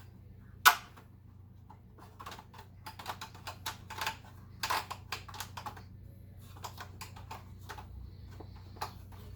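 Irregular clicks and light knocks of hard parts being handled and fitted together, with one sharp click about a second in and a dense run of clicks through the middle.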